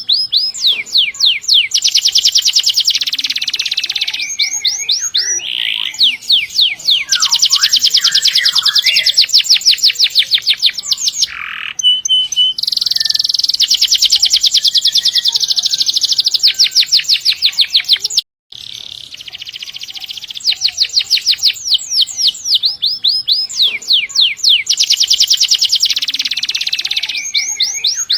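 Domestic canary singing long, rapid rolls of repeated high notes, run on from one trill into the next. The song cuts out for a moment about two-thirds of the way through, then picks up again.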